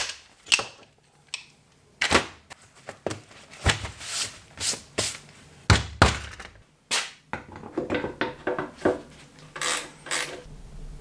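Irregular sharp knocks and clatters of tools and metal parts being handled and set down, some ringing briefly.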